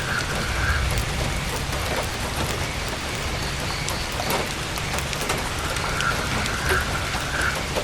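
Heavy rain falling on a tent's canvas as a steady hiss, with scattered sharp pops from a crackling campfire.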